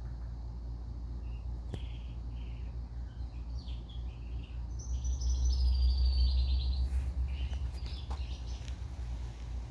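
Indian ringneck parakeets chirping in short high calls, with a busier, louder run of calls about five seconds in, over a steady low rumble.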